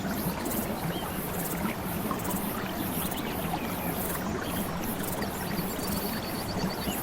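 Steady flowing water, with high, evenly pulsed insect-like trills and a few short chirps over it.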